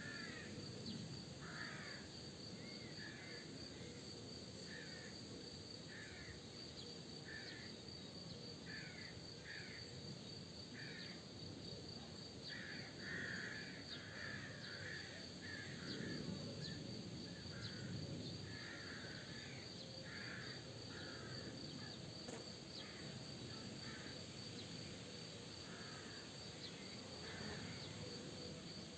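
Birds calling in a steady series of short calls, about one a second, over a steady high-pitched drone and a low rumble of soft wind.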